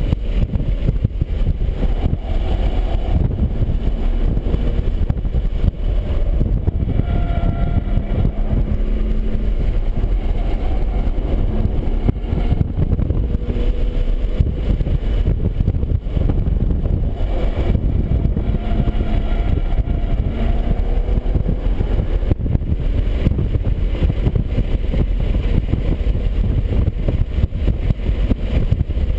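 BMW 135i's turbocharged straight-six running at track pace, its note rising and falling with throttle and gear changes, under a heavy rumble of road and wind noise.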